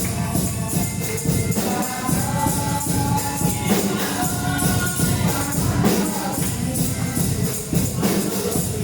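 Gospel praise music: a tambourine shaking in a steady rhythm with drums, under singing voices.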